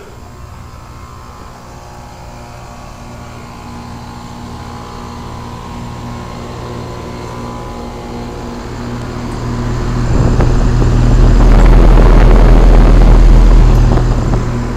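2001 Trane XE1000 Weathertron heat pump outdoor unit running: a steady electrical hum from the compressor with the fan. About ten seconds in, a loud low rushing swells up and fades again near the end.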